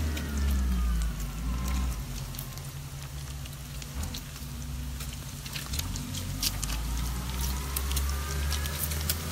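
Chopped bacon frying in grease in a stainless steel pan on a propane gas cooker, with sharp pops and crackles scattered throughout over a steady low rumble.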